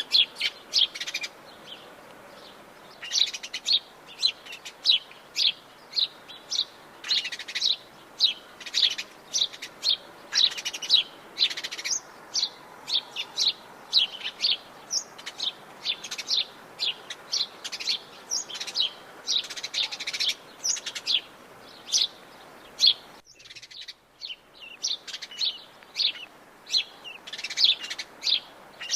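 Several forest birds chirping and calling: many short, high chirps in quick succession over a faint steady background hiss.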